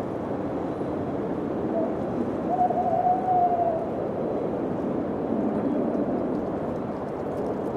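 Wind blowing steadily, with a long thin howling tone about three seconds in.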